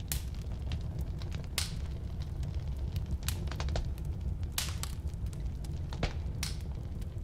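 Firewood burning in a fireplace: a steady low rumble of flame with sharp, irregular crackles and pops, a few of them louder.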